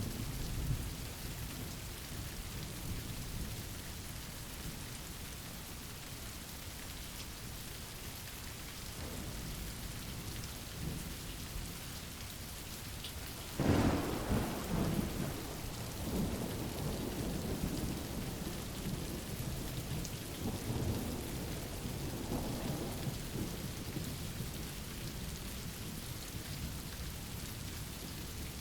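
Steady rain falling with a clap of thunder about halfway through, a sudden crack followed by several seconds of rolling rumble.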